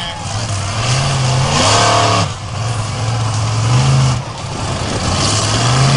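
Monster truck engine revving hard. The pitch rises, drops off suddenly about two seconds in and again about four seconds in, then climbs again.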